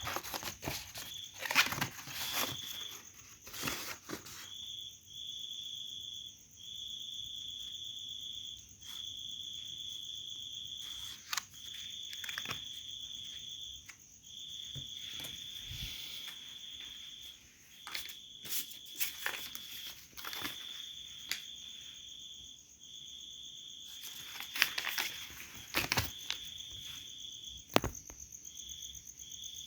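Insects trilling in repeated bursts of one to two seconds with short breaks, over a steady, higher insect drone. Scattered sharp clicks and rustles of handling are heard throughout, with a cluster near the end.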